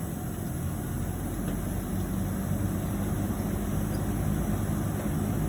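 Steady low mechanical hum of running machinery, with a low drone that grows slightly louder partway through.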